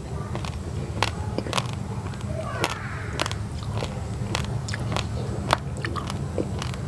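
Dry raw rice grains, basmati mixed with glutinous rice, being crunched between the teeth: sharp, irregular cracks several times a second over a steady low hum.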